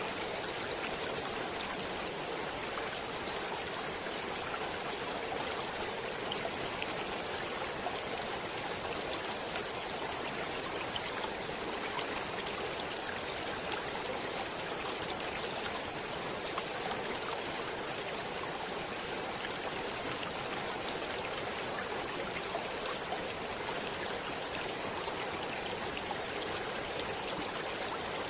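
Flowing stream water rushing steadily, with fine splashing throughout and no change in level.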